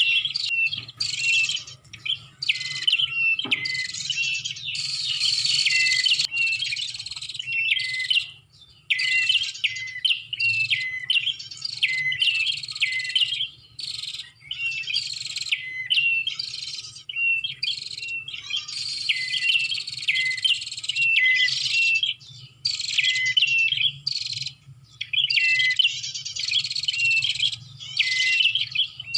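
Prenjak (prinia) song played as a lure call: rapid, repeated chirping phrases broken by short pauses every few seconds, over a faint steady low hum.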